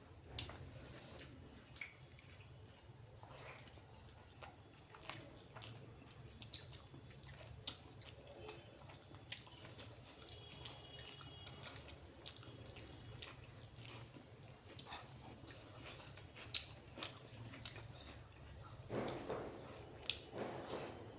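Close-up eating sounds: soft, wet mouth smacks and clicks of chewing mutton curry and rice, scattered irregularly, with a denser, louder stretch of biting near the end.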